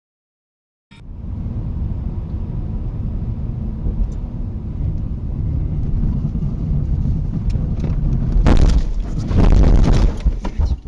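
Loud low rumble of a moving car, with wind and road noise on the dashcam microphone, starting abruptly about a second in. Two louder rushing surges come near the end.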